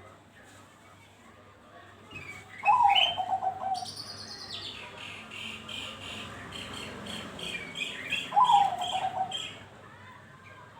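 Zebra dove (perkutut) song: two stuttering coo phrases that drop in pitch, about three seconds in and again near the end. Between them another bird gives a quick run of high, evenly spaced chirps, about three a second.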